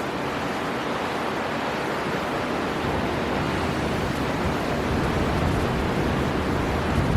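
Storm wind and surf on the coast: a steady, even rush of wind and breaking waves with no distinct gusts or crashes.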